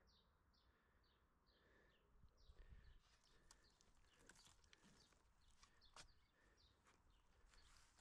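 Faint birdsong: a bird repeating short falling notes, about two a second, with a few light clicks and knocks from about three seconds in.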